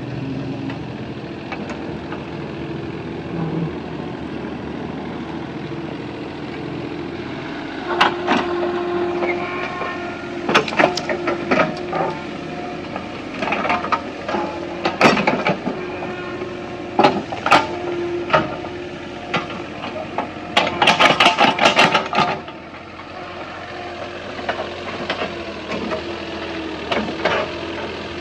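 Excavator engine running steadily while it digs up soil, with a series of sharp knocks and clanks from about eight seconds in and a quick run of rattling knocks a little past the twenty-second mark.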